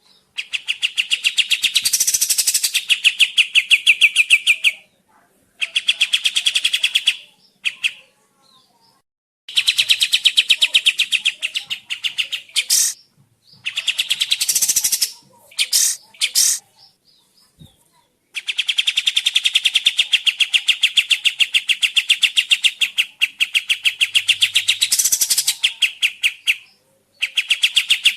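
Kapas tembak bulbul song: rapid, evenly repeated chattering notes in bursts of several seconds with short breaks between them.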